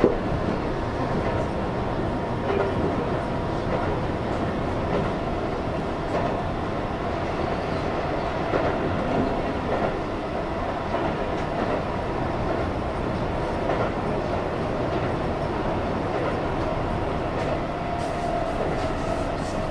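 Keihan electric commuter train running at speed, heard from inside the front car: steady rumble of wheels on rail with occasional faint clicks and a faint steady tone.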